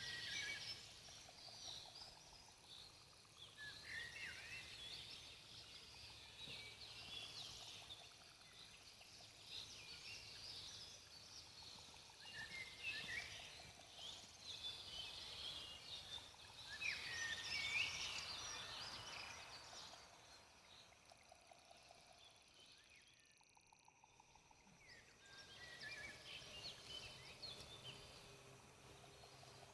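Forest birds chirping and singing in short bursts, with a faint steady campfire crackle underneath. The birdsong thins to almost nothing for a few seconds past the middle, then picks up again.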